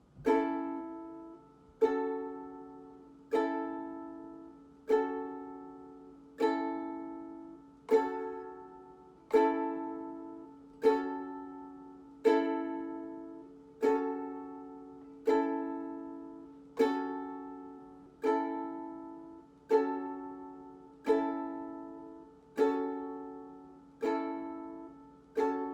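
Ukulele strummed once every second and a half or so, each strum left to ring and fade, switching back and forth between the A chord and the G-flat minor chord as a chord-change exercise.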